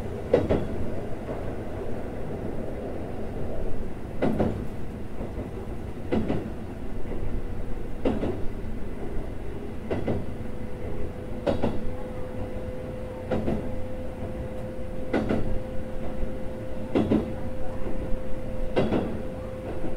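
Keikyu 600 series electric train running, heard from inside the passenger car: a constant rumble of wheels on rail, with a rail-joint clack about every two seconds at a steady speed. A steady tone comes through more clearly in the second half.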